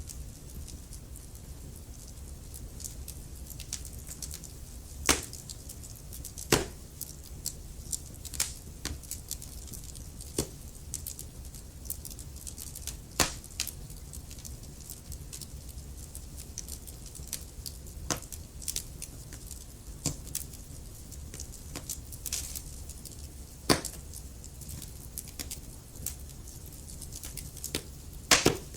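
Wood fire burning in a fireplace: irregular crackles and pops over a low, steady rumble, with a few sharper snaps standing out.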